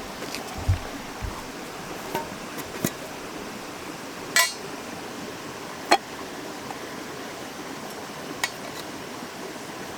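Bonfire burning with a steady rushing hiss, broken by scattered sharp crackles and pops, the loudest about four and six seconds in.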